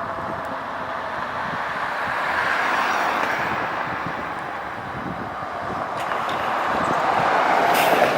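Road traffic noise: passing vehicles' engine and tyre noise that swells and fades, louder about a third of the way in and again near the end.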